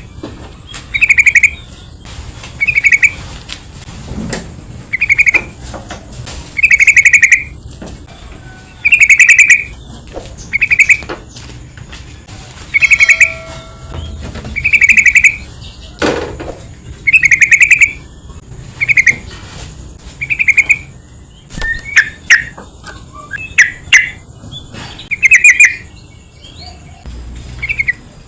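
Sooty-headed bulbul (trucukan) calling: short, bubbly chirping phrases repeated every second or two, turning into more varied, broken notes for a few seconds near the end.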